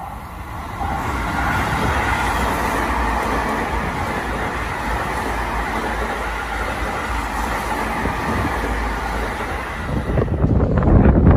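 Seibu 40000 series electric commuter train running past the platform: a steady rumble of wheels and motors that swells about a second in. Near the end it gives way to gusts of wind on the microphone.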